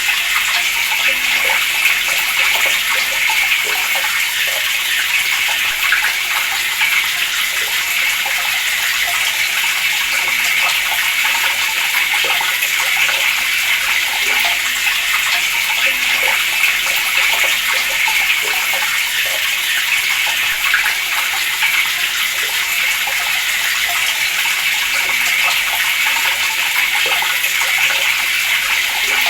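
Water running steadily from a tap, a constant splashing rush.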